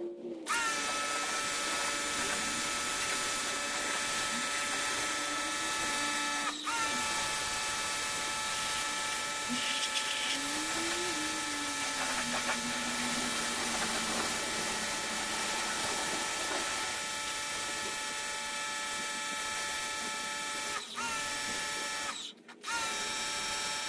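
Vacuum cleaner running steadily with a high motor whine over a rush of air, cleaning crud out of the car's soft-top drain area. The whine dips briefly about a quarter of the way in and again near the end, then cuts out for a moment before starting up again.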